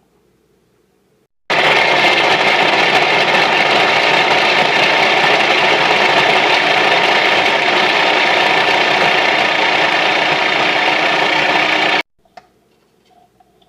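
Electric food processor motor running, chopping for about ten seconds; it switches on suddenly and cuts off suddenly.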